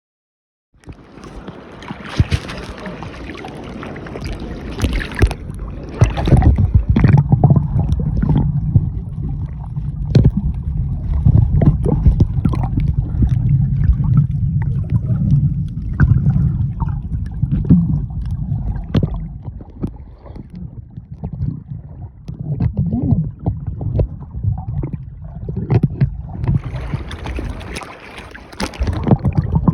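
Small speedboat running across the water: a loud, uneven engine and water rush, with many short knocks and gusts that rise and fall through the ride.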